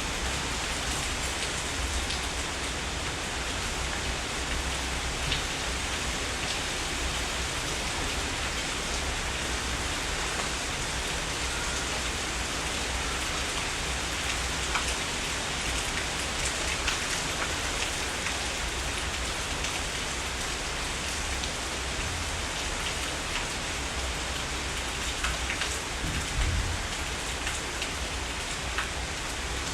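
Steady heavy rain falling, a dense even hiss dotted with many separate drop hits, with a brief low rumble about three-quarters of the way through.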